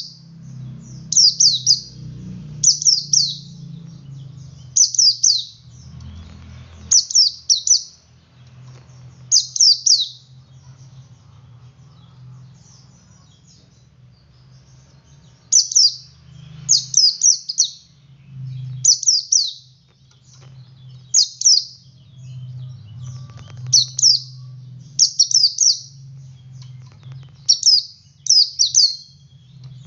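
Male white-eye (pleci) singing in short, rapid, high-pitched twittering phrases, one every second or two, with a pause of about five seconds in the middle. A steady low hum runs underneath.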